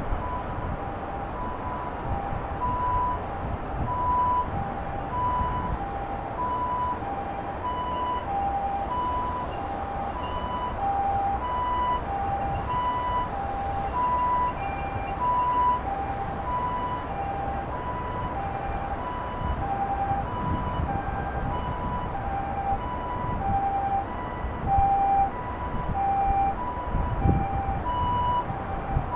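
Two-tone hi-lo siren alternating evenly between a higher and a lower note, each held a little over half a second, the "pee-po" pattern of a Japanese ambulance, over a low rumble of street noise.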